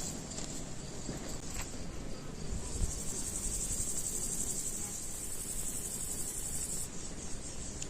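Insects chirring: a steady high-pitched trill that swells about two and a half seconds in and cuts off abruptly near the end.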